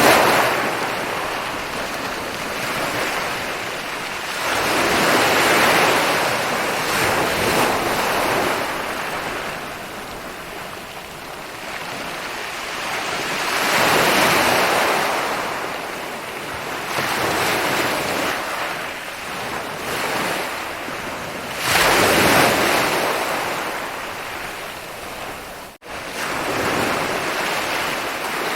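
Ocean waves breaking and washing up a beach, rising into a loud surge every several seconds and then falling back. Near the end the sound cuts out for an instant.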